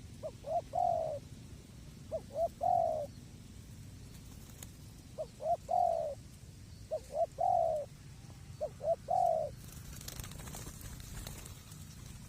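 Spotted dove (tekukur) cooing: five phrases over about nine seconds, each two or three short notes followed by a longer, falling coo.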